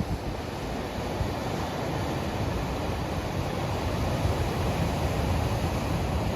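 Storm wind blowing across the microphone mixed with the steady rush of ocean surf, a continuous noise heaviest in the low end with no breaks.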